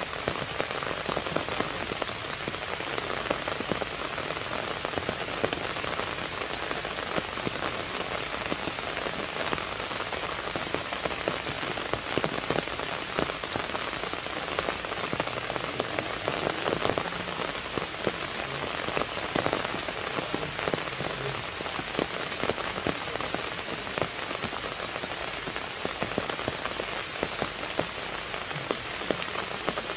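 Heavy rain falling steadily, a continuous hiss thick with the ticks of individual drops striking close by.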